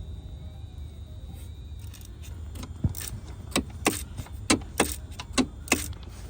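Small metal objects clinking: about eight sharp clicks over three seconds, starting nearly three seconds in, over a steady low hum.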